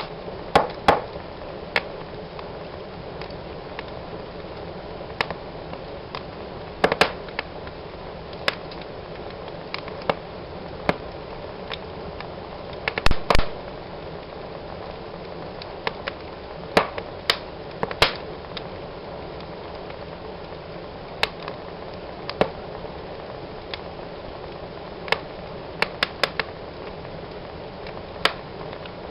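Fire burning in a fireplace, crackling: a steady low hiss with scattered sharp pops and snaps, the loudest few coming in a quick cluster about halfway through.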